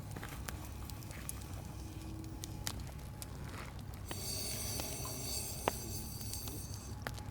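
Wood campfire crackling, with scattered sharp pops. About four seconds in a high hiss joins for about three seconds.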